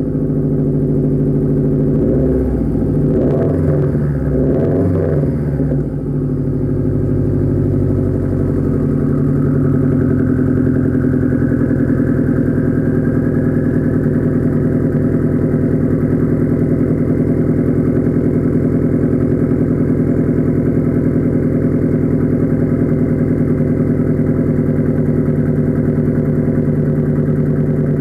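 2009 Subaru WRX's turbocharged flat-four engine idling after a cold start through a 3-inch aftermarket exhaust with a catted downpipe, cat-back and muffler delete. The engine note wavers up and down for the first few seconds, then settles into a steady idle.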